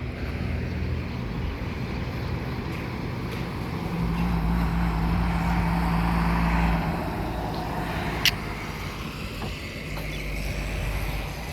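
Engine noise of a passing vehicle over steady outdoor background noise, swelling to its loudest with a low hum about four to seven seconds in, then easing off. A single sharp click comes about eight seconds in.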